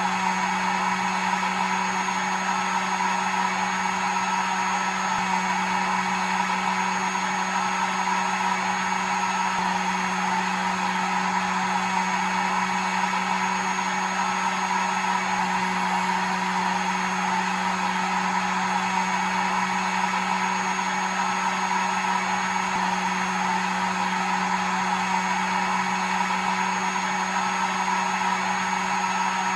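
Electric hair dryer running continuously: a steady motor-and-fan hum over an even airy rush, with a slight shift in pitch now and then.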